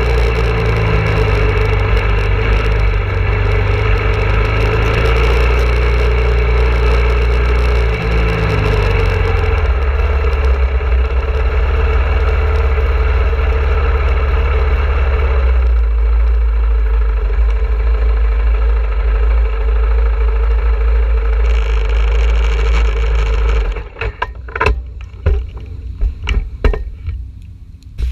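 KTM 690 Duke's single-cylinder engine running steadily at low revs as the bike rolls slowly; about four seconds before the end the engine is switched off, leaving a few sharp knocks and clicks.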